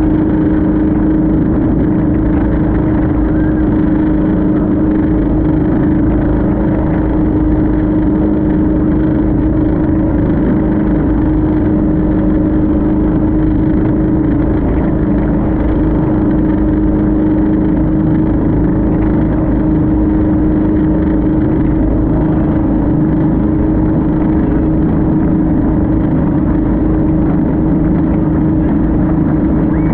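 Motorboat engine running steadily at speed, a constant drone over a rushing noise with no change in pitch.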